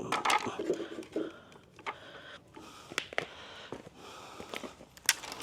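Faint handling noises: a few sharp scattered clicks over soft rustling, with no speech.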